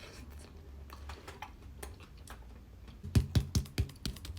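Scattered light clicks and taps, then a quick run of about five louder knocks about three seconds in: a utensil working into a frozen layered ice cream cake that is still hard.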